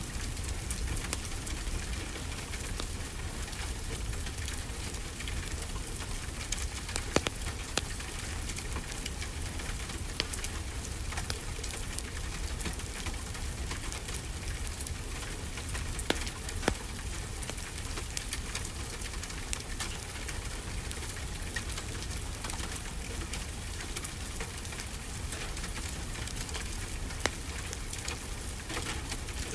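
Steady rainfall mixed with the crackle of a fireplace fire: an even hiss and low rumble of rain, with scattered sharp pops and snaps, a few louder ones standing out.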